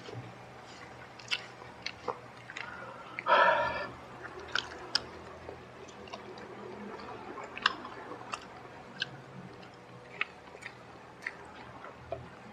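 Close-miked eating: a man chewing crispy-battered fried chicken, with scattered sharp crunches and mouth clicks and one louder, half-second burst about three and a half seconds in.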